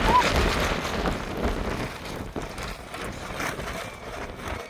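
Rushing noise of wind and rain in a storm, with a deep rumble of wind buffeting, loudest at the start and fading over the few seconds.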